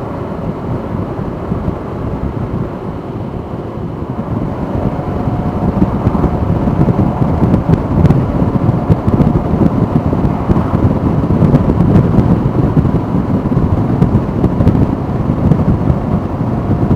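Wind rush and low rumble on a riding motorcyclist's microphone, with the bike's engine underneath. It grows louder about four seconds in and stays loud.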